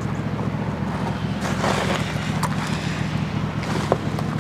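A steady low mechanical hum with a few faint clicks and knocks.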